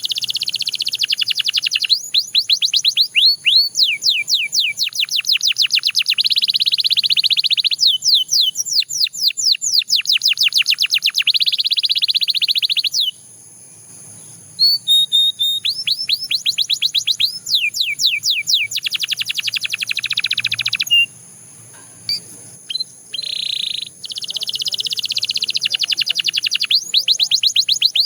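Canary singing: long phrases of rapid trills, each a fast run of repeated downward-sweeping notes. The song breaks off briefly about halfway through and again about three-quarters through.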